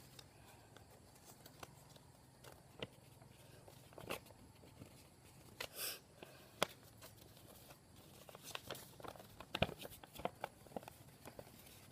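A sheet of folded A4 paper being handled and creased by hand: faint, scattered rustles, crinkles and soft taps, busier in the second half.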